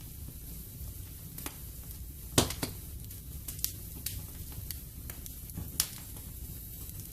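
Wood fire burning in a fireplace: a low steady rush with scattered sharp crackles and pops, the loudest about two and a half seconds in and again near six seconds.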